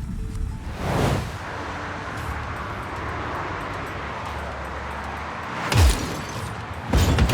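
Steady rumbling noise, then a sharp loud bang about six seconds in and a second heavy crash about a second later.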